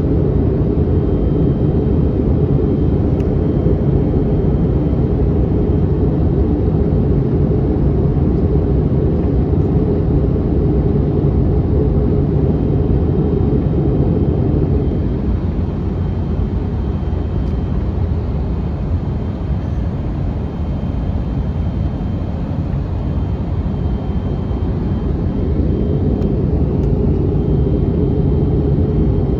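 Airbus A321neoLR cabin noise in flight, heard from a window seat: a steady low rumble of airflow and engines. It eases slightly about halfway through, then comes back up.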